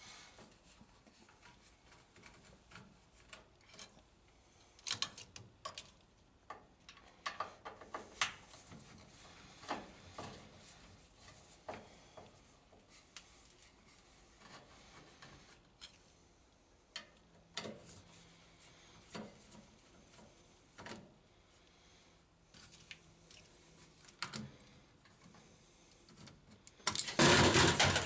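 Scattered light clicks and knocks of metal parts and hand tools being handled inside a vending machine during rotor disassembly. Near the end comes a sudden loud, noisy burst lasting about a second as a drink can is knocked loose.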